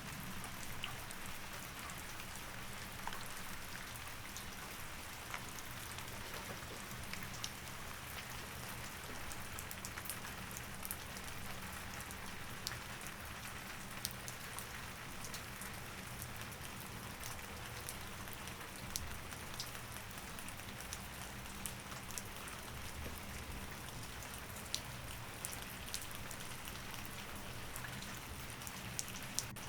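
Steady rain falling, with scattered drops ticking on a surface, over a low steady hum.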